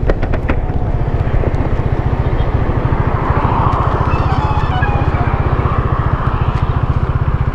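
Motorcycle engine idling with a steady, rapid low pulse.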